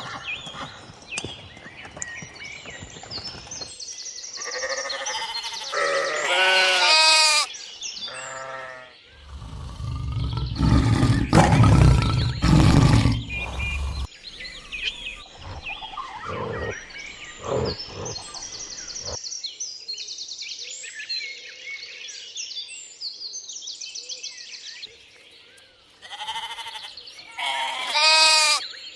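A quick succession of different animal calls, among them wavering bleats twice, near the start and near the end, with a loud rough noisy stretch in the middle.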